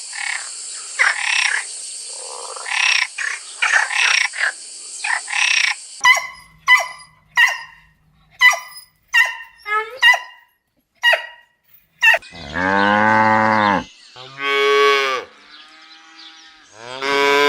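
Farm animals calling one after another: first a run of short calls over a high hiss, then a string of brief, evenly repeated calls, then long, loud, drawn-out pitched calls in the last few seconds.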